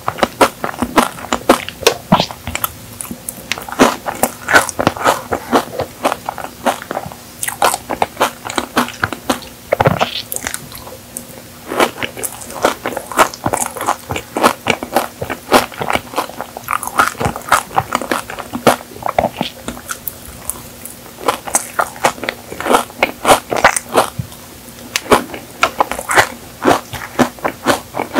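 Close-miked chewing of Dubai chocolate cake, its pistachio-kadayif layer of toasted shredded pastry crunching. The crunch comes as many quick, irregular crackles.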